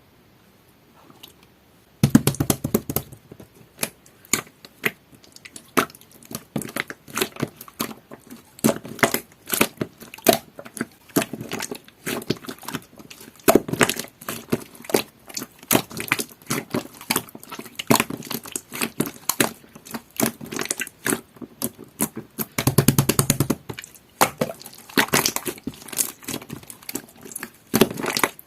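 Green jelly-textured slime being kneaded and squished by hand as pearl powder is mixed in: a dense run of sticky clicks, pops and crackles that starts about two seconds in.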